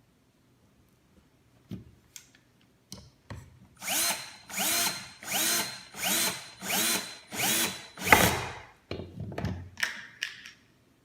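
Electric drill driving a screw into the wooden drawer frame in about seven short pulses, each revving up briefly, with a few quicker pulses near the end. A few light clicks come before it.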